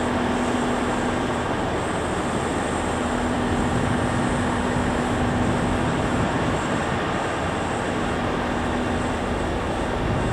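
Kintetsu limited express train pulling out of the platform: a steady rumble of the train running, with a low steady hum that drops out briefly now and then.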